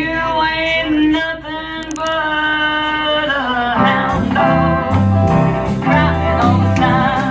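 Band performing a song: a singer's melody with wavering held notes over light guitar, then bass and the full band come in about four seconds in.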